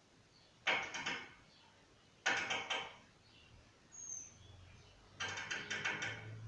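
Small bird calling: three bursts of rapid scratchy notes, the last the longest, with one short thin falling whistle between them.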